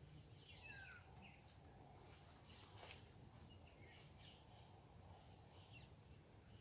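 Near silence: faint, scattered bird chirps over a low steady background hum, with a brief soft noise about three seconds in.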